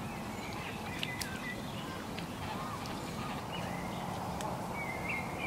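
Birds chirping in the background, short high calls every second or so over a steady outdoor hiss, with a couple of faint clicks about a second in.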